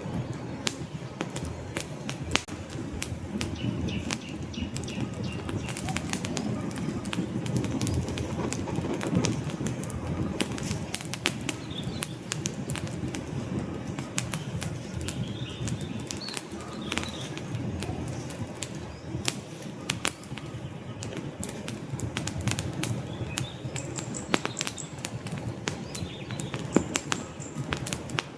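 Wood fire burning in a fireplace: frequent sharp crackles and pops of the logs over a steady low rush of flames, with a few faint, brief high whistles.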